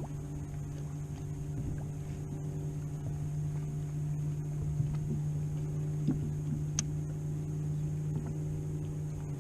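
Sea-Doo Fishpro personal watercraft engine idling with a steady low hum, with a few faint ticks over it.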